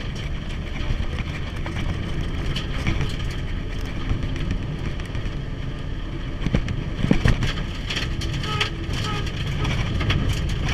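Mitsubishi Evo's turbocharged four-cylinder engine and tyre noise inside the cabin at speed on a forest road, with boost lost to a blown intercooler hose so the car is running as if naturally aspirated. Sharp knocks and rattles come through all along, loudest about seven seconds in.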